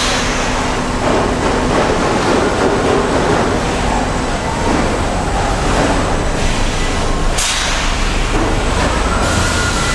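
Steady clattering rumble of car-factory assembly-line machinery, with sharp metallic clanks at the start and about seven and a half seconds in.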